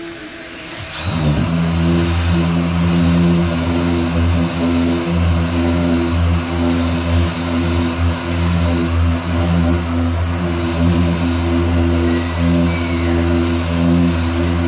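A machine motor starts about a second in and runs steadily with a low, even hum until near the end.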